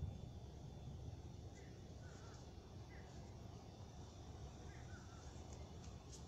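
Faint bird calls, short chirping notes that come every second or so, over a low steady rumble.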